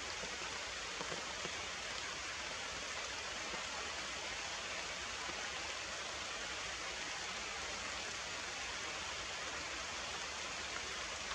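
Steady rain: an even hiss that keeps on without a break.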